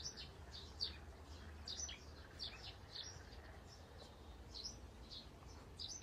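Birds chirping in the trees: short, high calls that each fall quickly in pitch, about two a second and irregular, over a faint low rumble.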